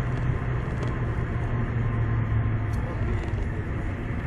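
Steady engine and road noise of a moving car heard from inside the cabin, with a constant low hum.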